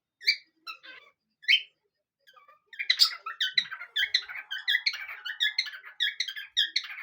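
Pet parrots singing in a duet: a few separate squeaky calls, then from about three seconds in a fast, unbroken run of high chirps and squeaks.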